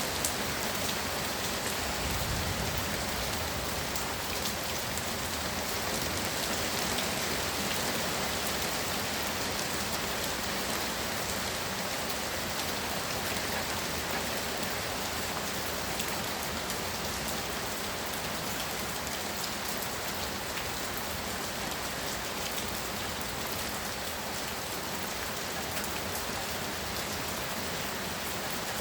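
Heavy rain pouring down steadily, a dense even patter on surfaces, with a brief low rumble about two seconds in.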